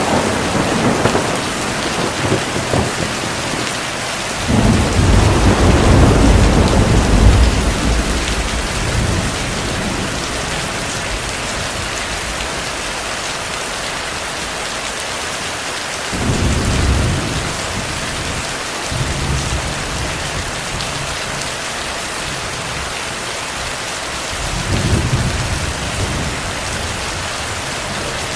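Steady heavy rain with rolling thunder: a sudden crack at the start, then a long low rumble a few seconds in that is the loudest part, and two shorter rumbles later on.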